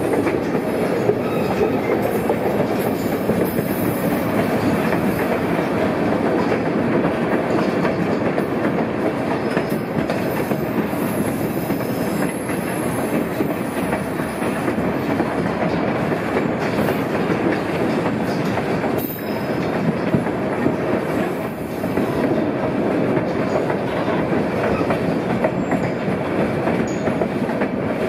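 White Pass railroad passenger train running along the track, heard from aboard a moving car: the steady noise of steel wheels on the rails.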